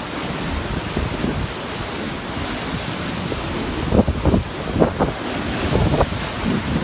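Storm surf breaking and washing on the shore in a blizzard, under a steady rush of noise, with strong wind buffeting the microphone in a few gusts about four to six seconds in.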